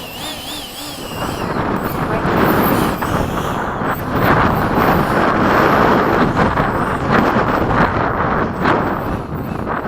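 Electric ducted-fan RC jet at high throttle, a loud steady rushing whoosh that builds up about a second in, with a brief warbling whistle at the start.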